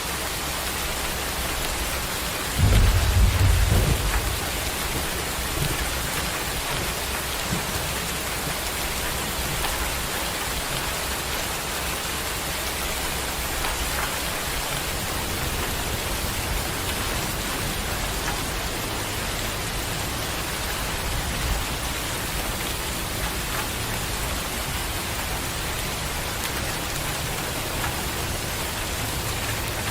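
Steady heavy rain hissing, with a loud clap of thunder rumbling about three seconds in and fainter rolls of thunder later.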